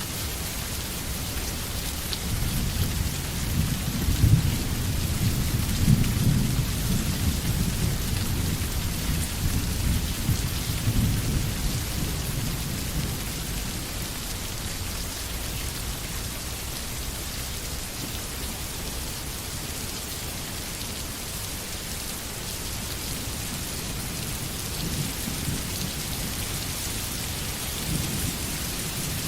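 Steady rain falling in a forest, with a low rolling rumble of thunder that builds a couple of seconds in, is loudest around four to six seconds, and dies away by about thirteen seconds. A fainter rumble returns near the end.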